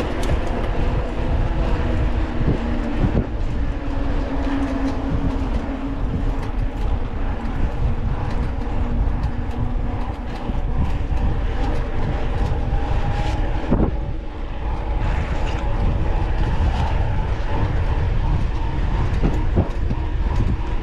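Mountain bike riding noise picked up by an onboard camera: wind rushing over the microphone and the bike rattling over rough trail, with a steady hum mixed in.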